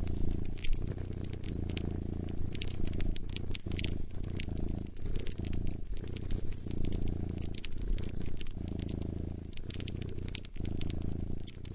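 Cat purring close up, a low steady rumble that breaks briefly with each breath every second or two, over a wood fire crackling with scattered pops and snaps.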